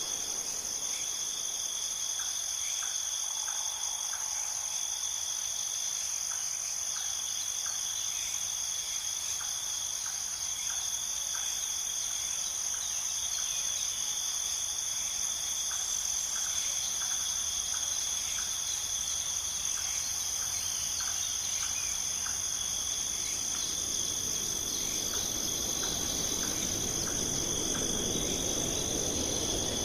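Steady, high-pitched chorus of crickets or other insects trilling without pause, with short chirps in irregular clusters. A low rushing sound grows in toward the end.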